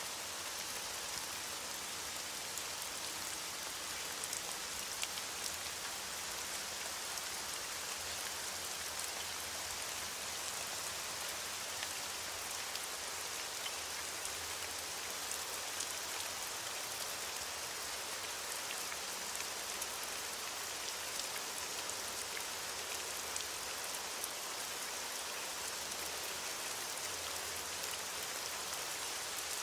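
Steady rain falling, a continuous hiss with fine scattered drop ticks.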